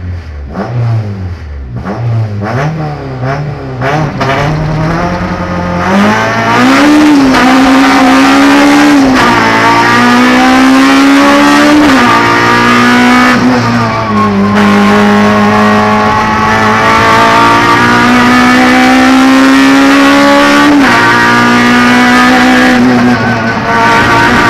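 Honda Civic Type R's four-cylinder engine heard from inside the cabin. The revs rise and fall in quick blips for the first few seconds, then the car launches about six seconds in and accelerates hard at full throttle. The pitch climbs through each gear and drops at several upshifts.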